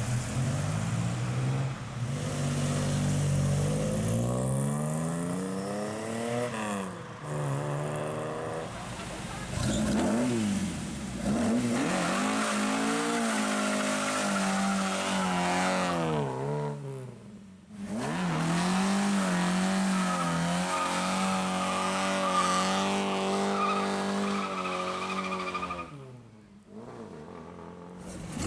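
Classic Ford cars' petrol engines revving and accelerating away one after another. The engine note rises and falls several times, with two brief drops in level.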